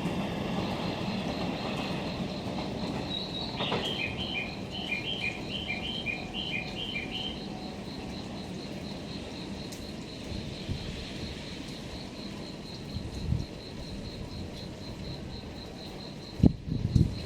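Low rumble of a train fading away, under an insect's steady, high, pulsing chirp. A bird calls a quick run of paired notes about four seconds in, and a few knocks sound near the end.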